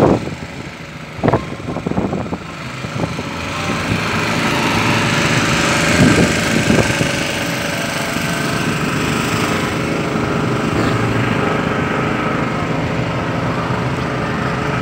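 An engine running steadily, growing louder over the first few seconds and then holding level.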